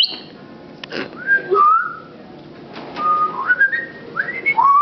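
A pet talking bird whistling: a short high note at the start, a pair of gliding notes a little after a second in, then a run of whistled notes stepping upward in pitch near the end.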